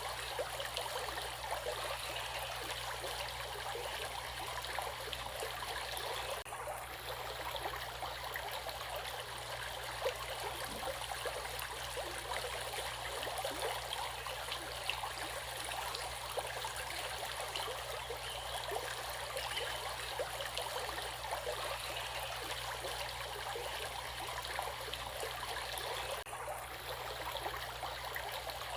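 Stream water running and trickling steadily, an even rushing wash with small splashing flickers.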